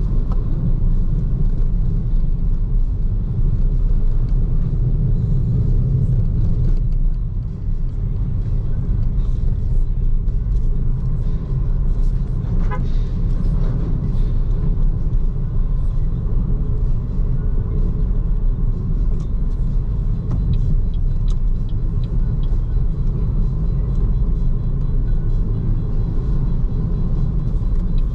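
Steady low rumble of a BYD Seagull electric car driving: tyre and road noise with no engine sound, dipping briefly about a third of the way in.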